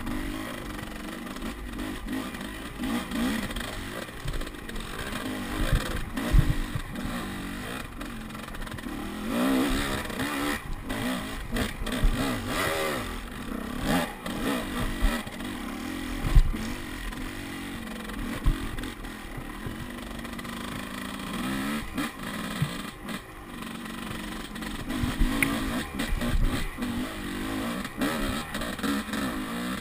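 Off-road motorcycle engine running and revving up and down repeatedly, with frequent knocks and clatter.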